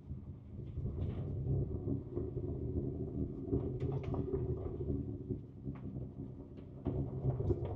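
2024 Ford Ranger Raptor's twin-turbo V6 heard from inside the cab, getting louder right at the start and then running with a rough low rumble under load, with scattered knocks and rattles throughout.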